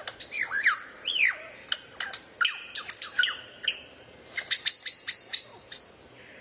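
A songbird singing a rapid, broken run of sharp chirps and short whistled notes that sweep up and down in pitch, several notes a second.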